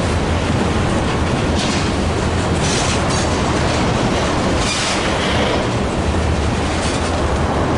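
Freight train cars rolling past on the rails: a steady loud rumble, with brief hissing bursts of wheel and rail noise every second or two.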